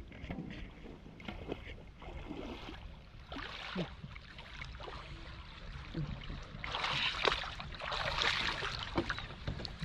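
Water splashing and sloshing in irregular spells, with small knocks mixed in; the splashing is loudest from about seven to nine seconds in.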